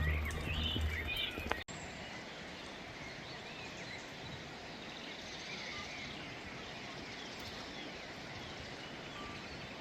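Small birds chirping intermittently over a steady outdoor noise bed. A loud low rumble at the start stops abruptly at a cut about a second and a half in.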